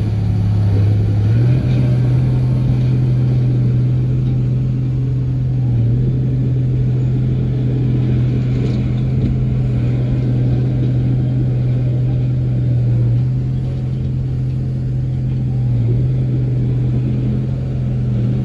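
Bulldozer's diesel engine running steadily under load. Its pitch steps up about a second and a half in, then sags briefly a few times.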